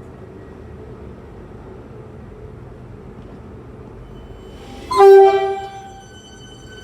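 Suburban electric train's horn giving one short, loud blast about five seconds in, over the steady rumble of a train.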